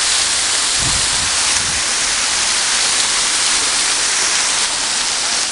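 Steady rushing and splashing of water from a small man-made waterfall and its squirting fountains.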